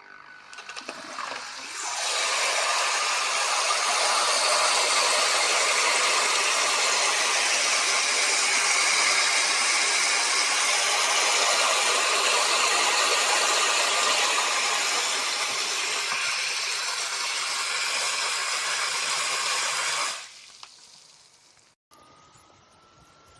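Water spraying steadily from a battery-powered portable camping shower's head, fed by its submersible pump. It builds up over the first couple of seconds and stops fairly abruptly about twenty seconds in.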